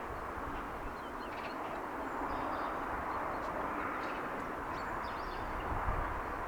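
Early-morning outdoor ambience heard from a height: a steady, distant wash of noise that swells slightly about two seconds in, with faint short bird calls scattered through it.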